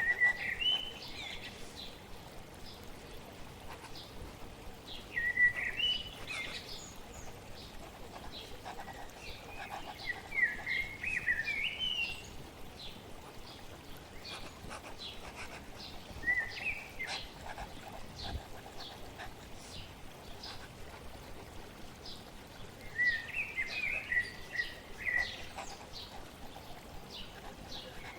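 Songbirds chirping in about five short bursts of twittering song, over a steady wash of flowing water. Faint light ticks run throughout.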